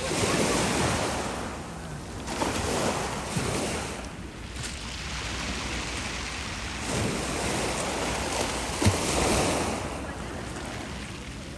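Black Sea waves washing onto the beach in repeated swells, with wind buffeting the microphone. A brief thump about three quarters of the way through.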